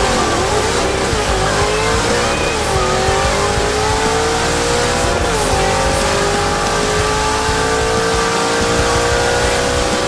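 Naturally aspirated 331 small-block Ford V8 in a Fox-body Mustang at full throttle on a quarter-mile drag pass. The revs climb and drop back at each upshift of the Tremec manual gearbox, the last shift about five seconds in, then one long pull to the finish line.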